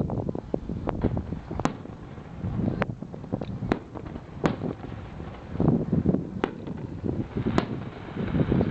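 Fireworks going off, with a sharp crack every second or so over a rough, gusting rumble of wind on the microphone.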